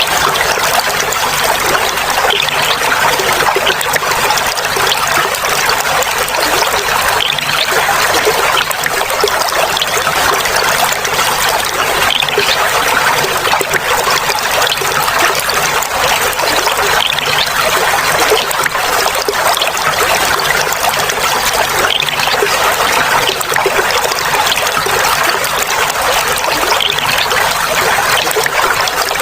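Clear water flowing and trickling steadily, a continuous gurgle with no pauses.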